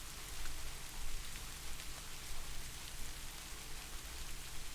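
Steady, soft rain falling, with scattered drops ticking through it.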